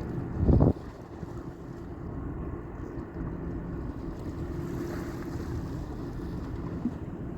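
Steady low drone of ship and tugboat engines across the water, with a faint hum and wind on the microphone. A short low thump about half a second in is the loudest sound.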